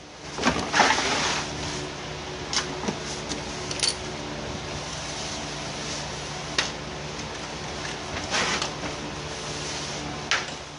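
A steady low mechanical hum with scattered sharp clanks and knocks over it, like tools and metal parts being handled in a garage.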